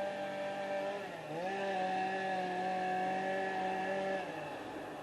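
Small engine of a power cutting tool running at high revs. Its pitch dips sharply about a second in and again near the end, then climbs back each time, as the engine bogs under load while it cuts through a small tree.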